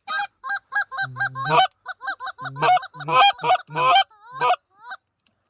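Goose honking: a rapid string of short honks and clucks, some low notes breaking sharply upward, which stops about half a second before the end.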